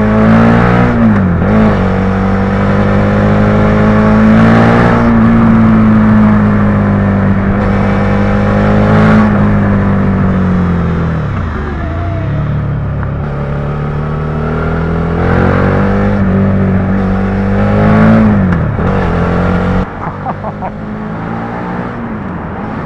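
Suzuki SV650's V-twin motorcycle engine under hard riding, its revs rising and falling. The pitch dips sharply three times, as at gear changes, and the engine gets quieter near the end as the throttle eases off.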